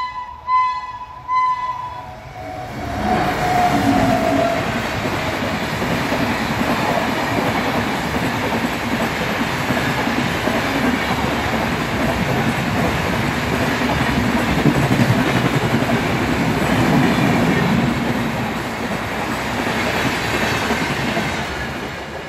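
A long Indian Railways express of red-and-grey LHB sleeper coaches rolling past on electrified track: steady wheel rumble and rail clatter that builds about two seconds in, is loudest past the middle, and eases off near the end as the train draws away. It opens with an on-and-off pitched tone for the first two seconds.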